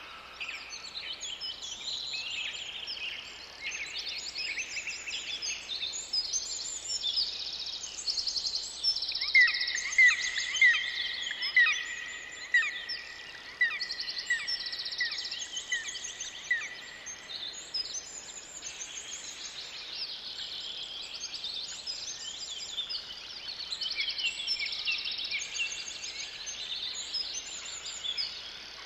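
Several wild birds singing together in a forest chorus of overlapping chirps and trills. About a third of the way in, one bird starts a run of short repeated notes about twice a second, the loudest sound; it keeps this up for about eight seconds.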